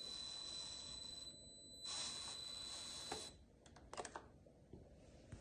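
Faint, steady high-pitched electric whine with hiss from a small RC model truck's electric drive. It breaks off briefly, resumes, and stops about three seconds in, followed by a few light clicks.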